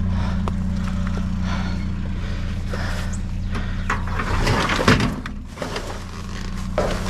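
Clatter and knocks of discarded computer equipment being moved around in a metal dumpster, with a sharp knock about five seconds in. Under it runs a steady low engine hum that fades after about four seconds.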